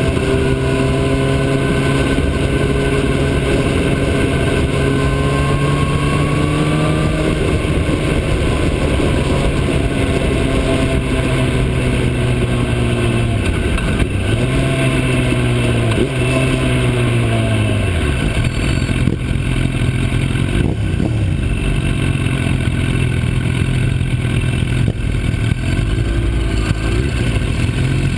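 Motorcycle engine running under way, its pitch creeping up, then dropping and recovering twice about halfway through before falling away; a dense rush of wind and road noise fills the last third.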